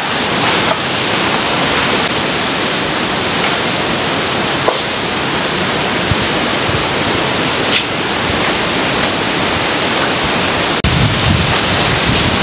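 Strong gusty wind rushing through trees and bamboo as a loud, steady hiss; about eleven seconds in, low buffeting of wind on the microphone joins it.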